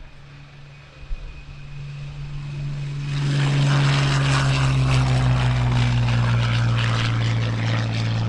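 Piston-engined propeller aircraft flying by, its engine drone growing much louder about three seconds in and then holding, with a slight drop in pitch as it passes.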